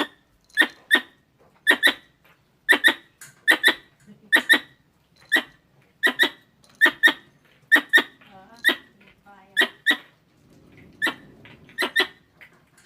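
Squirrel calls: sharp, short chirps, mostly in quick pairs, repeating about once a second, of the kind played to lure squirrels.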